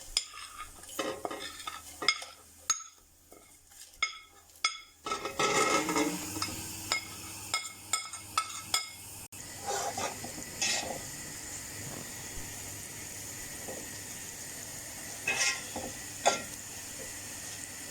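Spices added to hot oil and fried onions in a pan, stirred with a utensil: a few taps and clicks against the pan, then about five seconds in a steady sizzle of frying starts, with the utensil clicking and scraping over it.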